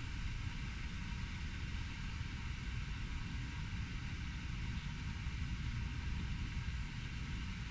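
Steady low rumble of distant city traffic: an even urban background noise with no single event standing out.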